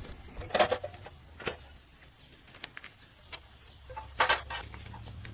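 A few sharp metallic knocks and clanks of tools and parts being worked on an old bulldozer. The loudest come about half a second in and near the end. A low hum comes up in the last second.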